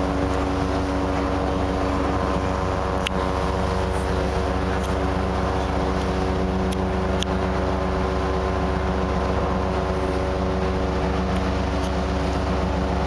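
Ship's engine running, a steady low drone with a constant hum, with a few faint clicks.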